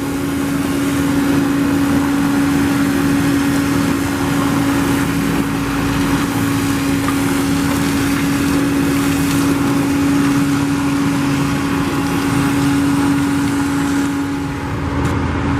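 An engine-driven construction machine running steadily, with one constant droning hum over a wash of machine noise.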